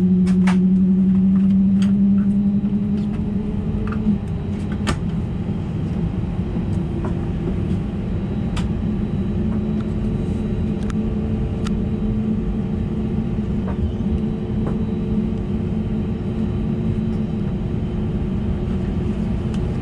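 Steady drone inside the cabin of an Airbus A320neo on the ground, its engines and air systems running, with a humming tone that rises slightly over the first few seconds and then holds steady. A few faint clicks.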